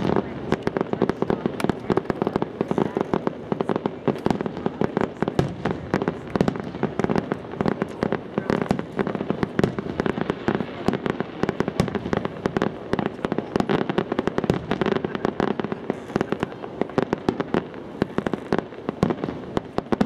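Fireworks display: a rapid, unbroken run of bangs and crackles from bursting shells, many each second.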